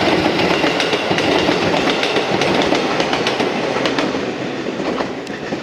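Electric multiple-unit train running by, wheels clacking over rail joints in a quick irregular series over steady running noise, easing slightly near the end.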